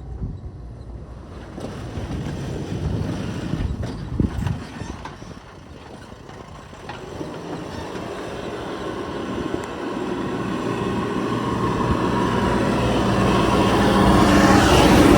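Heavy diesel vehicle engine working with a few knocks, then growing steadily louder over the last several seconds to a peak near the end.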